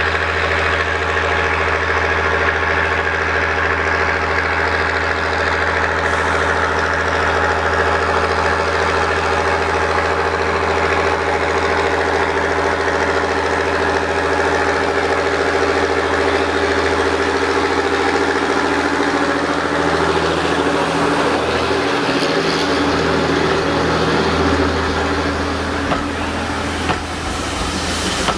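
An engine idling steadily with a low hum, its note changing about twenty seconds in.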